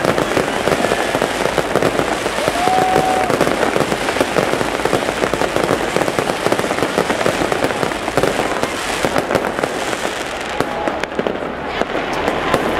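Fireworks display: a dense, continuous barrage of aerial shells bursting and crackling, with a short whistle about three seconds in. The crackling thins out a little near the end.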